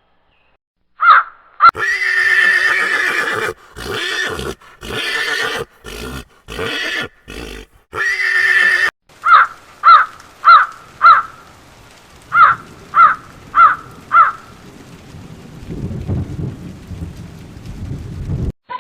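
Animal calls: a long call, then several choppy calls, then eight short repeated calls in two groups of four, with a low rumble near the end.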